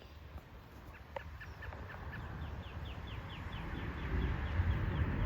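A bird calling in a rapid series of short, high, falling chirps, over a low rumble that grows louder toward the end.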